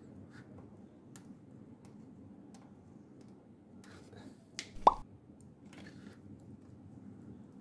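Faint clicks and light metal scrapes of a small bolt for the supercharger's front coolant pipe being handled and started by hand, not tightened. One sharp click about five seconds in is the loudest sound.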